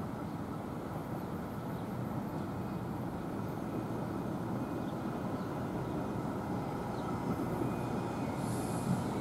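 Low, steady rumble of an approaching commuter train, growing slowly louder as it nears.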